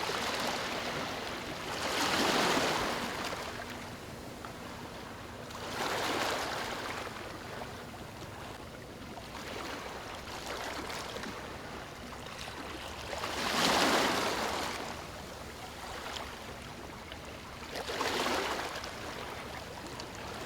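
Small waves breaking and washing up on a beach: four surges of surf over a steady hiss of water, the loudest about two-thirds of the way through.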